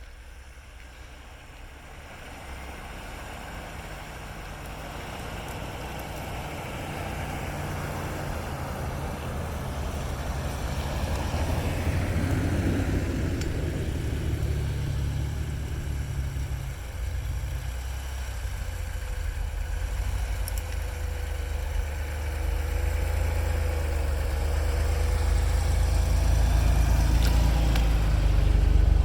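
Off-road vehicle engine running with a low, steady rumble that grows gradually louder throughout, as of a vehicle slowly crawling closer.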